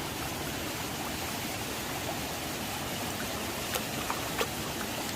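Mountain stream rushing steadily, with a few faint short ticks between three and a half and four and a half seconds in.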